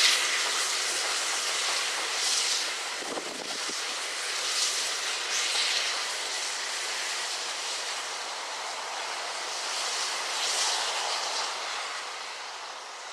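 LNER A1 steam locomotive 60163 Tornado hissing steam, with the hiss swelling and easing several times and fading slightly near the end.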